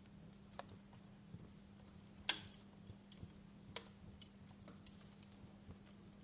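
Wood fire crackling: irregular sharp pops and ticks of burning logs, the loudest pop about two seconds in, over a faint steady low hum.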